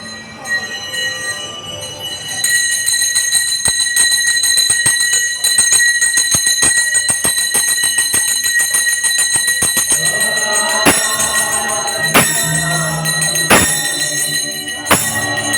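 Hand-held temple bell rung rapidly and continuously during aarti, a steady high ringing over quick clanging strokes. From about ten seconds in, heavier beats join about once every second and a half.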